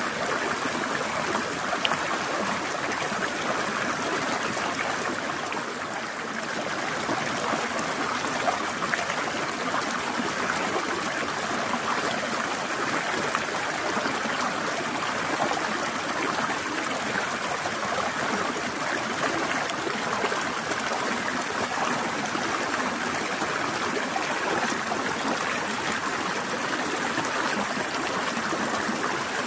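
Water of a stream flowing and trickling over rocks, a steady rushing with fine splashing detail. A slight lull about six seconds in.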